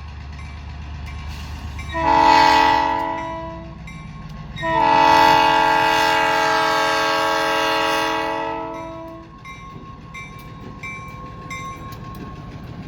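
Locomotive air horn, an unusual collector's multi-chime horn rather than the railroad's normal one, sounding a chord of several tones. It gives a short blast about two seconds in, then a long blast of about four seconds, over the low rumble of the passing train.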